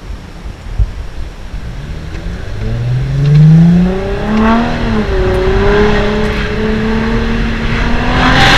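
Straight-piped, muffler-less 2008 Audi A4 2.7 TDI V6 diesel accelerating. After a couple of seconds of wind and road rumble, the engine note rises in pitch and grows loud, dips briefly about halfway, then holds steady at high revs.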